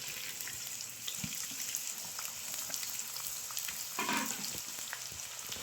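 Chopped onions frying in about a cup of hot mustard oil in a kadai: a steady sizzling hiss with small crackles. There is a brief louder noise about four seconds in.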